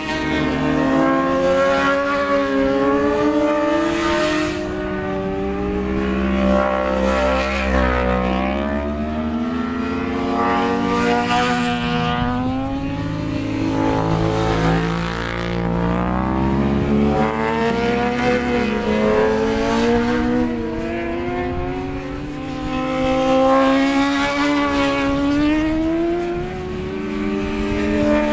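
Racing motorcycles at full throttle on track, engines climbing in pitch and dropping back again and again as they change up through the gears. A steady low wind rumble sits underneath.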